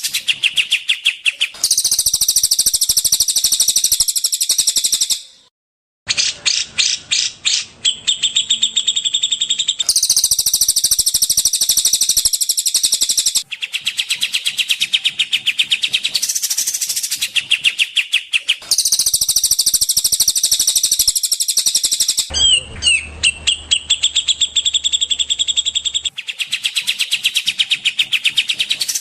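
Recorded songbird song: rapid, high-pitched trilling and chattering notes in spliced segments that cut abruptly from one to the next every few seconds, with a brief gap about five seconds in.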